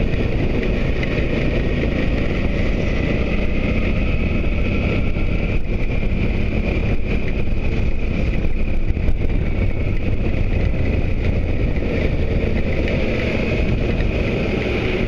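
Motorcycle being ridden: a steady rush of wind over the microphone with the engine running beneath it.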